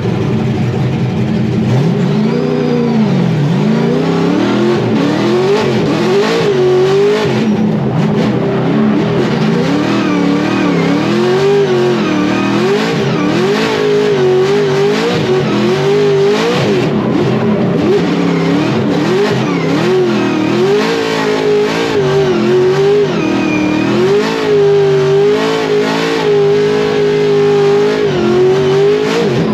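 Scion FR-S drift car's engine revving hard, the pitch rising and falling over and over as the throttle is worked, then held high for a few seconds near the end.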